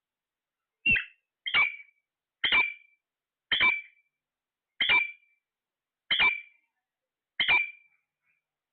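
A parrot giving seven short, shrill squawks, one every second or so.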